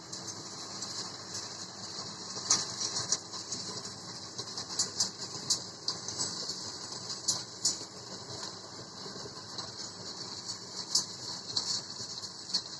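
Carraro tractor working a Forigo G35 rotary stone burier through soil: steady running noise with many irregular sharp ticks and knocks.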